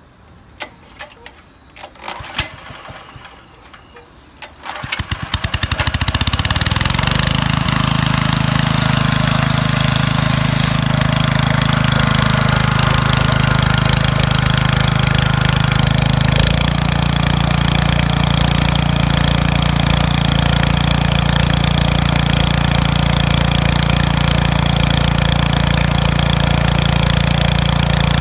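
Iwata SUE-152P engine air compressor being started: a few clicks and knocks, then about four and a half seconds in the engine catches and runs steadily. Its note shifts slightly about sixteen seconds in.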